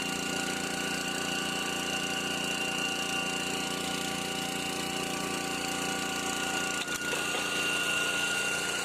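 A small water-well drilling rig running steadily while drilling through soft ground, with a steady high whine over the machine's hum. The sound dips briefly about seven seconds in.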